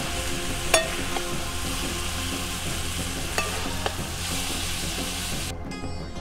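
Cabbage sizzling as it fries in a steel pan over a wood fire, with a metal spatula clinking against the steel pan and bowl a few times, the sharpest clink about a second in. The sizzling cuts off near the end.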